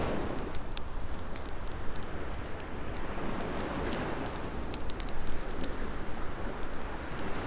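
Ocean waves washing in and receding in slow swells, mixed with a wood fire crackling and popping in many quick, sharp snaps.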